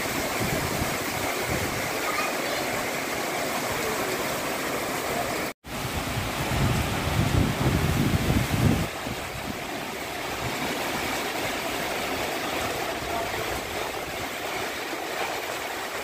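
Strong wind rushing steadily. A heavier gust buffets the microphone with a low rumble for about three seconds after the middle, and the sound cuts out for an instant just before it.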